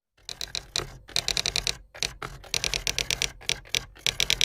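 A rapid, uneven series of sharp clicks, about five to eight a second, each with a bright ringing tone, starting a moment in.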